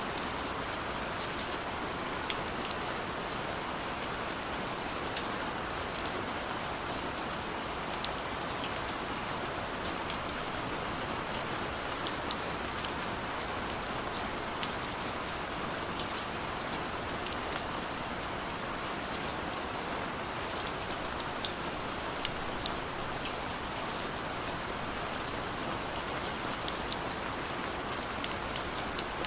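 Steady heavy rain, an even hiss with many sharp drop ticks scattered through it.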